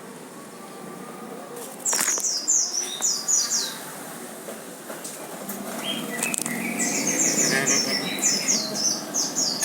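A small bird chirping in quick runs of short, high, falling notes, one run about two seconds in and a longer one from about seven seconds. A low rumble grows slowly louder in the background during the second half.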